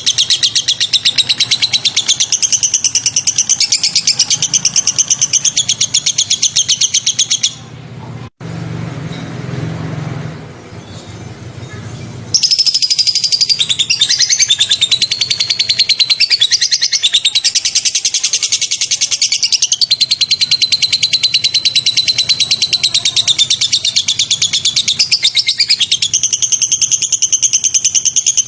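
Bird song made of very fast, rattling high-pitched trills repeated in long runs: the rapid 'tembakan' bursts used in birdsong training tracks. About a third of the way in, the song drops out for a few seconds to a quieter low hum with one sharp click, then the trills resume.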